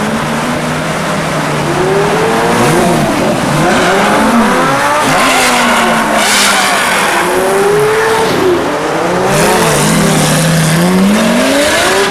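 Several supercar engines idling and being revved repeatedly, their rising and falling revs overlapping.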